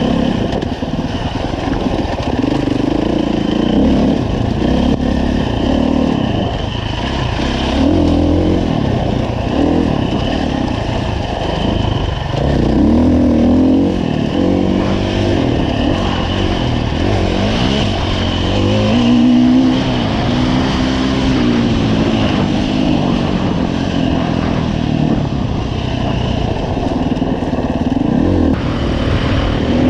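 2015 Husqvarna FE 350 dirt bike's single-cylinder four-stroke engine revving up and down as the throttle is opened and closed while riding, its pitch rising and falling many times.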